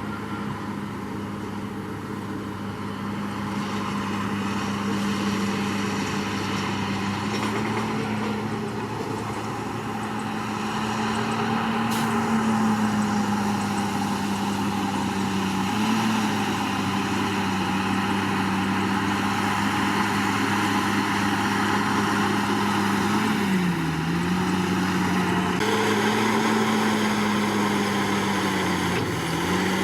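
Komatsu D61PX crawler bulldozer's diesel engine running steadily under load, its pitch sagging briefly twice in the last third as the load comes on.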